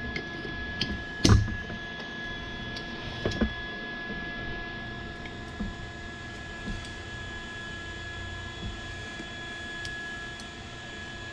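A few sharp metal clinks and knocks from hand tools being handled on an engine cylinder head, over a steady electric hum. The loudest knock is about a second in, followed by a pair around three seconds in, then faint ticks.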